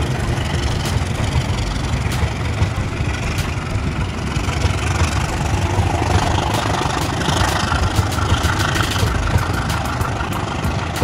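Diesel-hauled passenger train running past on the track: a steady low rumble of wheels and engine, with sharp clicks scattered through that come more often near the end.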